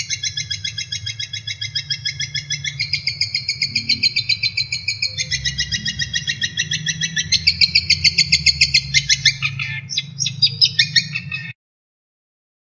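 Recorded songbird song of the kind played to train caged songbirds: rapid, evenly repeated high trilled notes, switching to a new trill phrase every second or two, over a faint low hum. It cuts off suddenly near the end.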